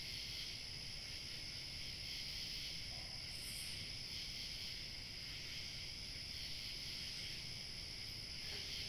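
Steady evening chorus of chirping crickets, a continuous shrill trill over a low rumble of light wind. A brief higher chirp stands out about three and a half seconds in.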